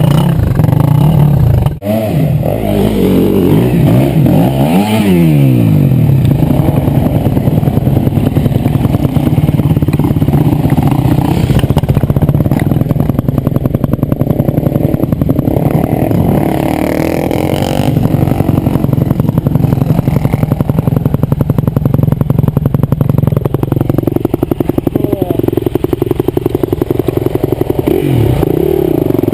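Enduro motorcycle engine running and revving, its pitch rising and falling again and again.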